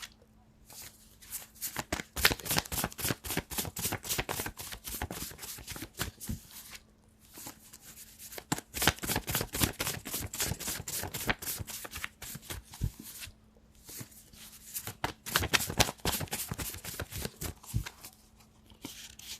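A deck of tarot cards being shuffled by hand: rapid flicking and slapping of cards in three bouts, with short pauses between them.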